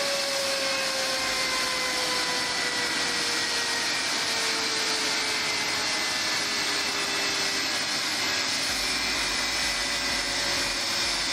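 DC-10 jet engine running steadily at high power during a ground engine run: a continuous rushing roar with a whine that slowly drops in pitch.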